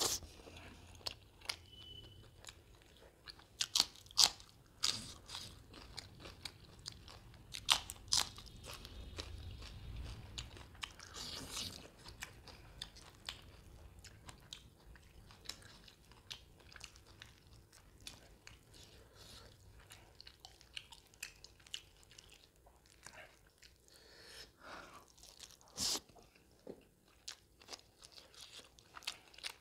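Close-miked chewing and biting of mutton curry and curry-soaked roti, with sharp mouth clicks at irregular intervals; the loudest come about four seconds in, around eight seconds, and near the end.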